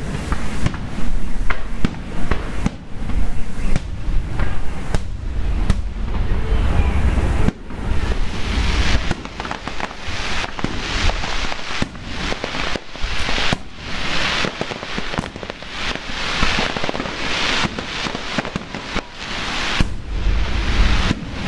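Fireworks display: a rapid series of aerial shells bursting with sharp bangs and booms, and a stretch of dense crackling from about eight seconds in.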